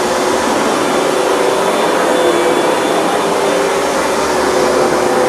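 Hoover Dual Power Max upright carpet cleaner running steadily, its suction motor whining, with a few steady tones that waver slightly in pitch as it works the carpet.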